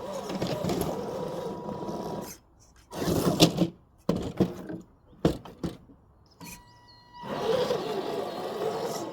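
RC crawler's electric motor and gearbox whining, its pitch wavering with the throttle. It cuts out for a few seconds in the middle, where a burst of knocks and several sharp single knocks are heard, then it starts again near the end.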